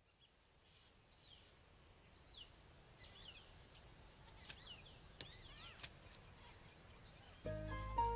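Birdsong ambience: a soft background hiss with small chirps and two louder, sharply rising whistles about three and five seconds in. Music with a low bass comes in near the end.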